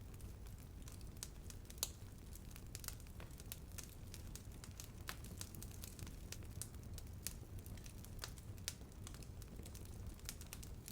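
Wood fire burning with irregular crackles and pops over a low, steady rumble; the sharpest pop comes about two seconds in.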